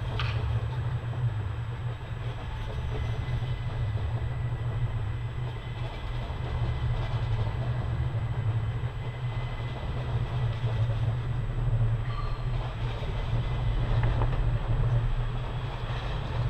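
SNCB AM08 Desiro electric multiple unit running past along the platform, a steady low rumble of wheels and running gear.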